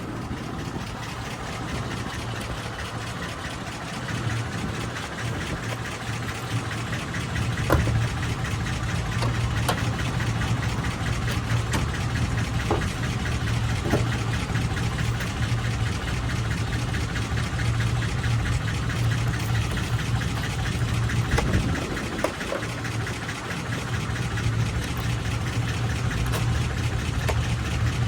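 A car engine idling steadily, with a few short clicks and knocks from handling parts near the car.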